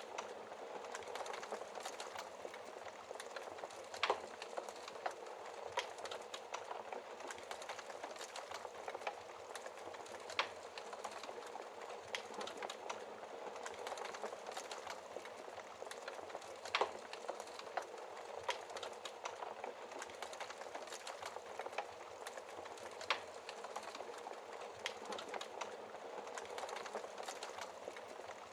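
Wood fire burning in a fireplace: a steady crackle and hiss of burning logs with sharp pops every few seconds, the loudest about 4, 10, 17 and 23 seconds in.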